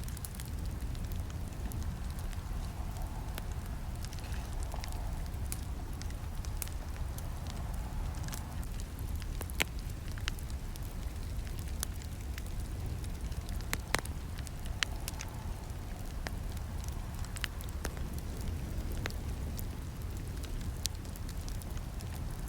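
Campfire crackling: a steady low rumble of burning with irregular sharp pops and snaps, two of them louder about ten and fourteen seconds in.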